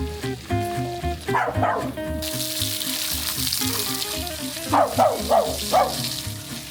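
Background music with a steady beat, over which a dog barks briefly about a second and a half in and gives three quick yips near the five-second mark. A steady hiss sets in about two seconds in.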